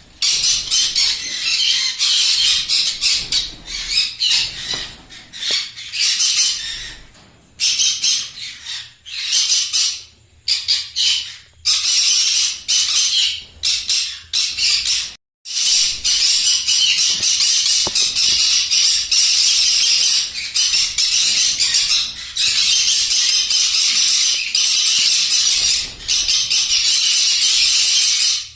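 A flock of small parrots (lovebirds, conures and cockatiels) squawking and screeching in a dense, continuous shrill chorus, with a few short lulls and one sudden brief cut-out about halfway through.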